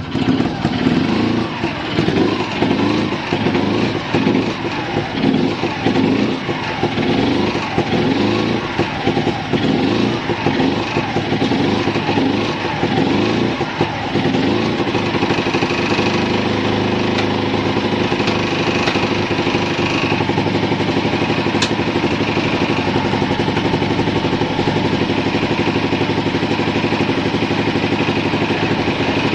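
Fuji Heavy Industries Rabbit 125 (S301) scooter engine running just after starting, blipped repeatedly for about the first half, then settling into a steady, even idle.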